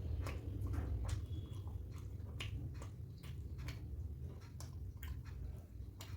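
A person chewing poori with curry close to the microphone: irregular wet mouth smacks and clicks, over a low steady hum.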